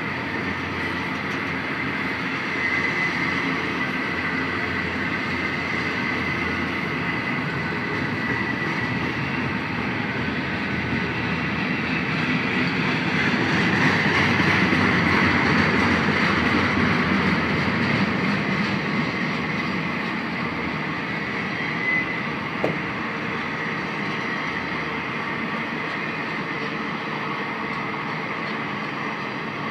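Intermodal freight train rolling past: a steady rumble of wheels on rail with a thin high squeal running under it, growing loudest about halfway through. A couple of brief knocks come a little past two-thirds of the way through.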